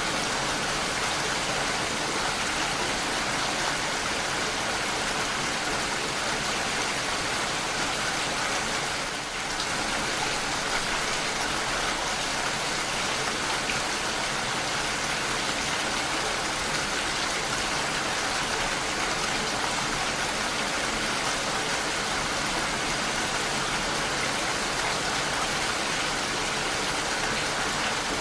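Steady rainfall: an even hiss of rain falling, with a brief slight lull about nine seconds in.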